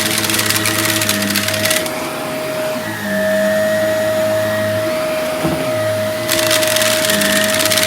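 Vacuum cleaner running with a steady motor whine, crackling and rattling as it sucks up debris for the first couple of seconds and again from about six seconds in.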